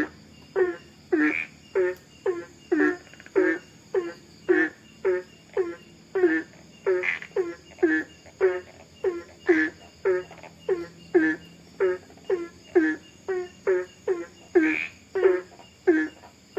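Frogs croaking in short repeated calls, about two a second and fairly even, over a faint steady high hum.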